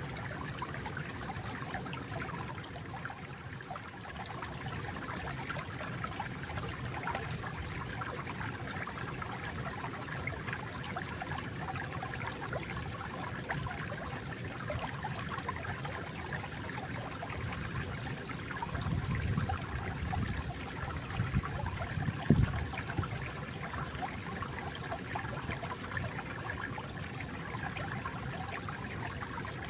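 Flowing stream water, a steady babbling trickle with a low rush that swells for a few seconds past the middle and a brief louder splash near the two-thirds point.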